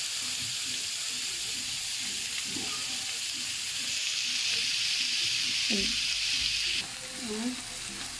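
Raw chicken feet sizzling in hot oil in a frying pan, just added to the sautéed garlic, ginger and onion. The steady hiss grows louder about halfway through, then drops off suddenly shortly before the end.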